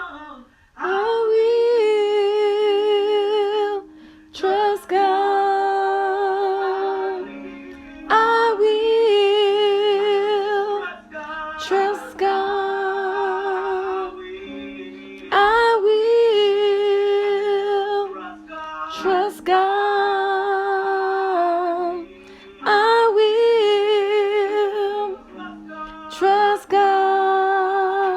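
A woman singing long, held notes with vibrato in phrases of a few seconds each, over a soft steady instrumental accompaniment.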